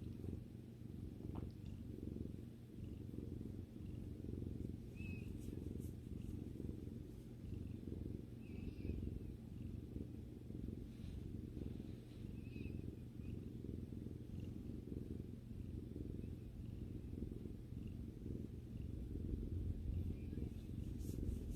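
Domestic cat purring steadily, a continuous low rumble recorded close up.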